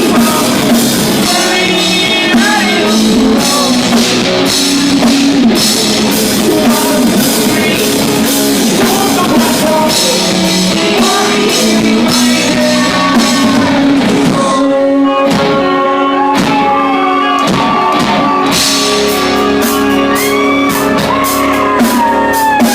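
Live rock band playing loud: singing over guitars, bass and drums. The drums drop out for a moment about two-thirds of the way through while the voice holds long notes, then come back in.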